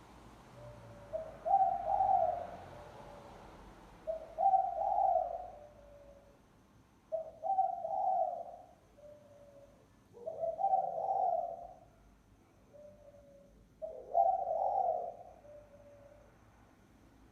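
Spotted dove cooing: five repeated call phrases about three seconds apart, each a short soft note, a loud rolling coo and a softer trailing note. This is the bird's song as used for a lure call.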